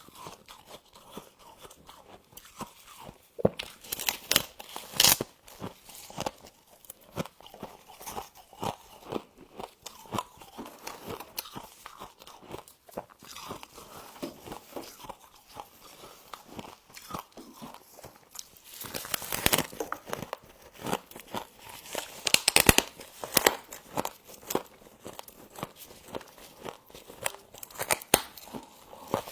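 Close-up biting and chewing of frost: a dense run of sharp, crisp crunches, with louder bouts of crunching about four seconds in and again around twenty seconds in.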